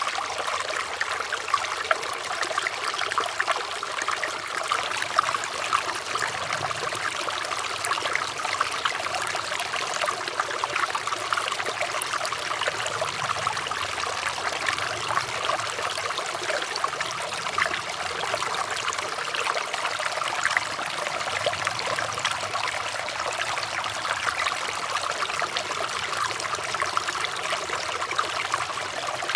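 Flowing water trickling and splashing steadily, with many small splashes and no change in level.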